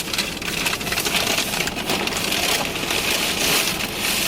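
Takeout food bag and wrappers rustling and crinkling as they are handled: a steady run of irregular crackles.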